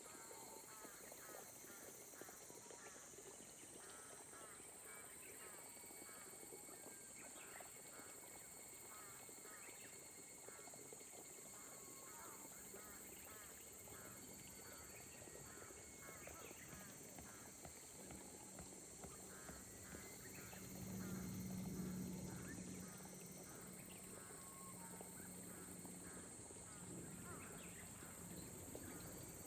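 Faint outdoor chorus of short animal calls repeated over and over, over a steady high hiss. A low hum comes in partway through and swells briefly about two-thirds of the way in.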